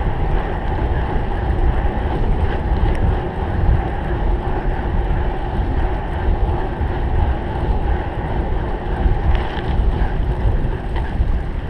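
Wind rumbling on the microphone of a rider-carried camera while riding a cyclocross bike at race pace; a steady, loud low rumble.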